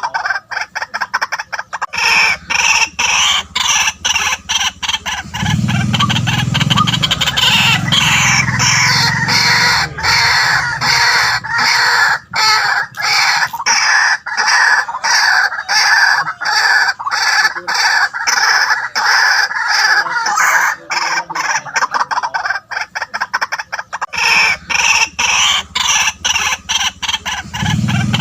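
White-breasted waterhen calling: a loud, continuous run of harsh, rapidly repeated notes.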